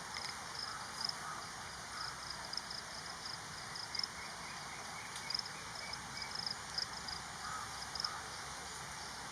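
Outdoor ambience: a steady hiss with short, high-pitched animal chirps repeating irregularly, one to three a second.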